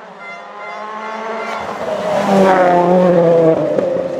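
A rally car comes up at speed, its engine note growing louder, then passes close with the pitch dropping away.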